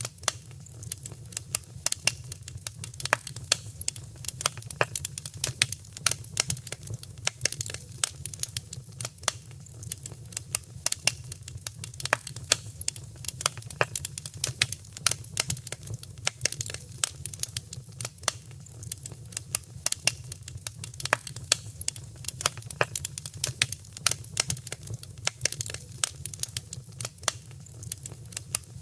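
Wood fire crackling in a fireplace: many small irregular snaps and pops over a steady low rumble of burning.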